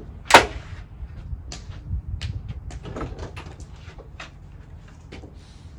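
A single sharp knock or bang about a third of a second in, followed by scattered light clicks and taps over a low rumble.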